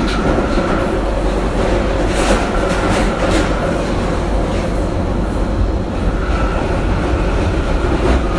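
Inside a moving train carriage: a steady rumble of the train running on the rails, with a few faint clicks of the wheels over the track. A faint steady whine fades out midway and comes back about six seconds in.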